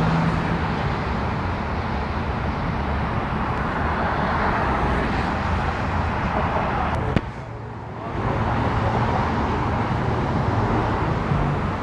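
Road traffic noise with a vehicle engine running, a steady rumble and hiss with no siren, dropping briefly with a click about seven seconds in.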